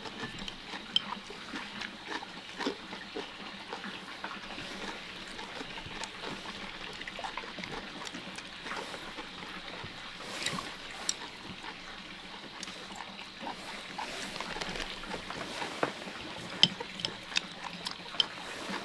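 People eating at a table: chewing and mouth sounds, with light clicks of chopsticks against bowls, coming more often near the end.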